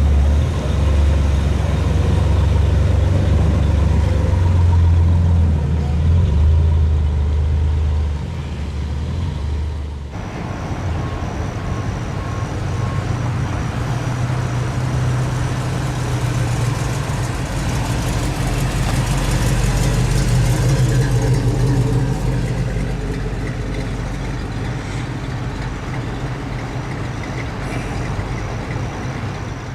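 Hot rod engines idling with a steady low rumble. About ten seconds in, the sound changes abruptly to another running engine.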